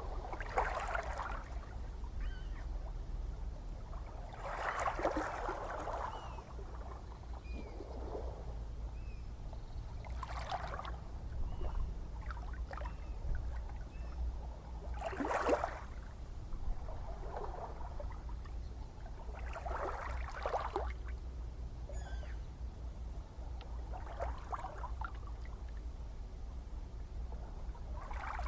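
Gentle ocean waves lapping, with a splash and wash about every five seconds over a steady low rumble of the sea.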